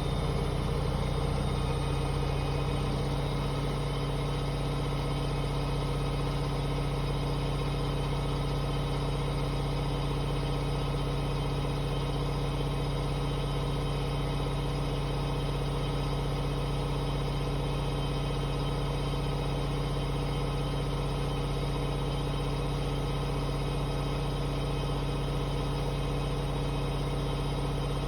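Hoover H-Wash 500 washing machine on a spin-only cycle set to 1600 rpm, its drum spinning at a steady high speed with an even motor hum.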